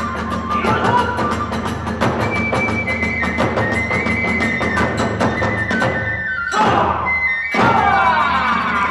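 Hiroshima kagura ensemble music: a bamboo transverse flute playing a held, stepping melody over fast, dense drum and hand-cymbal beats. About seven seconds in, the sound briefly thins, then comes back with a falling sweep.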